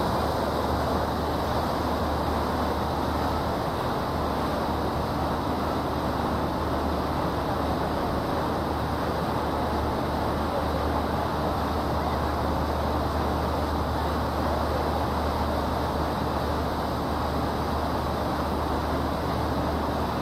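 Boat under way: a steady low engine drone under an even rushing noise, unchanging throughout.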